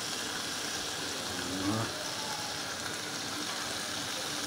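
Chili sambal frying in oil in a wok, a steady sizzling hiss.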